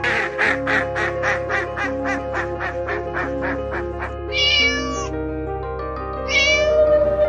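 A rapid run of duck quacks, about four a second, for the first four seconds. Then come two short cat meows, one a little after four seconds and one a little after six, all over steady background music.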